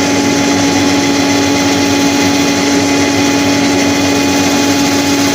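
Workshop dust extractor running steadily, a constant hum over an airy rush, while a bowl is power-sanded with 120-grit abrasive on the lathe.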